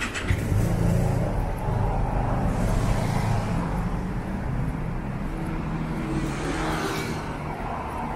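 A motor vehicle's engine running close by on a busy street, loudest in the first few seconds, over steady traffic noise.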